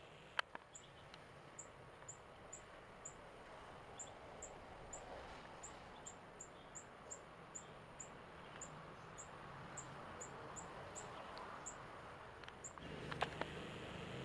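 Faint, high chirps repeating about twice a second over a quiet outdoor background, with a sharp click about half a second in.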